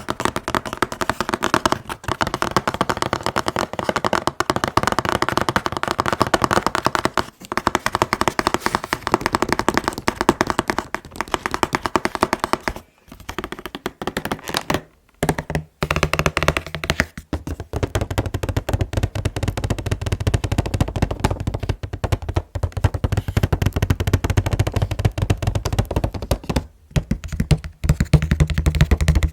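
Fast, continuous tapping on a collectible figure's packaging box, many taps a second. There are brief pauses about halfway through, and after them the taps take on a deeper, hollow ring.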